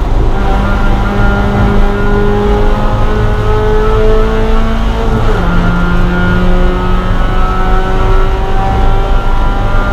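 Spec Miata's four-cylinder engine under hard acceleration, heard from inside the cockpit, its pitch climbing slowly through a gear. About five seconds in the pitch drops suddenly at an upshift, then climbs again.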